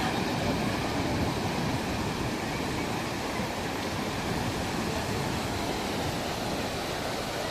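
Ocean surf washing on a beach, a steady rushing noise with no distinct wave breaks.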